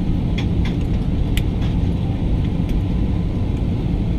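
Steady low rumble of cabin noise inside an Airbus A320neo on the ground, with a few faint clicks.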